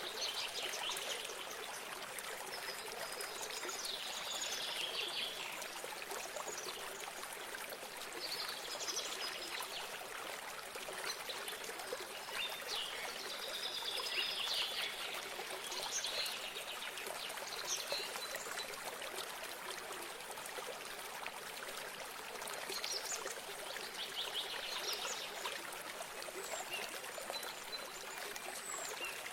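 A small stream trickling steadily, with birds singing short phrases every few seconds.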